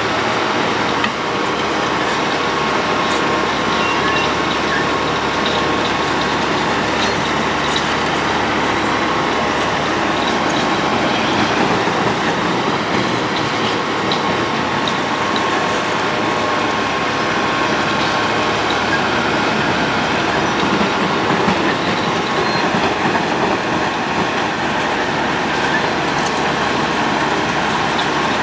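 Road planer (cold milling machine) at work: a loud, steady grinding and rumble of the machine, with scattered small clicks.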